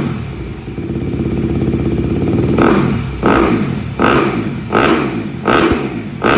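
2020 Honda CRF250R's single-cylinder four-stroke engine running at a fast idle, then blipped sharply about every three quarters of a second, starting about two and a half seconds in.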